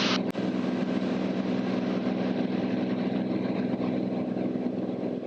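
Cirrus SR22T's turbocharged six-cylinder engine and propeller droning steadily in cruise flight, with one brief click about a third of a second in.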